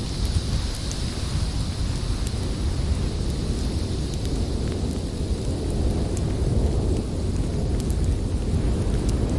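Snowstorm wind rumbling low and steady, with a higher whistling howl in the first couple of seconds, and scattered small crackles of a wood fire.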